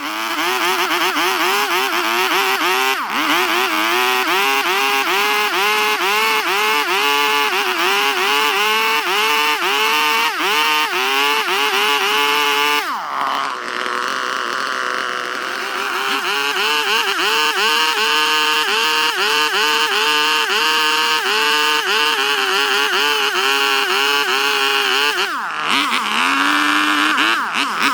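Two-stroke chainsaw cutting into wood, its engine note dipping and recovering about twice a second as the chain bites. Twice the engine drops off briefly and revs back up.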